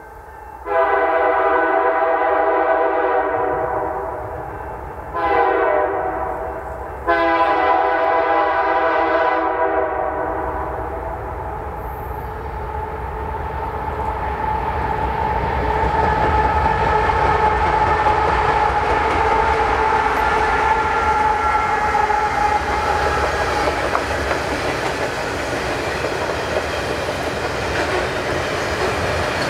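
Canadian Pacific locomotive air horn sounding long, short, long, the last blast held and fading. The train then rolls past with a continuous rumble of wheels on rail and clickety-clack from the cars.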